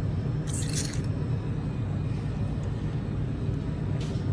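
A steady low rumble of background machinery or traffic, with brief hissy rustles about half a second in and again near the end.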